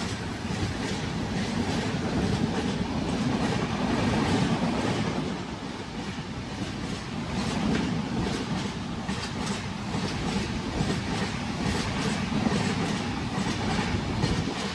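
Two passenger trains passing each other at speed on adjacent tracks: a steady rush of coaches running by close alongside, with continuous clickety-clack of steel wheels over rail joints.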